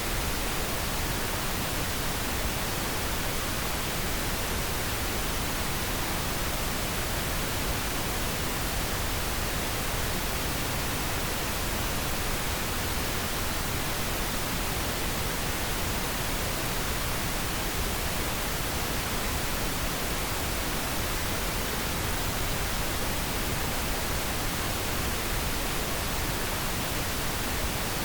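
Pink noise: a steady, even hiss spread across all frequencies, with no change or events.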